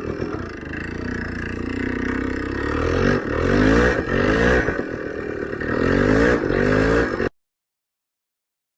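Motorcycle engine revving in a series of rising surges, as the bike works through deep snow. The sound cuts off suddenly to silence about seven seconds in.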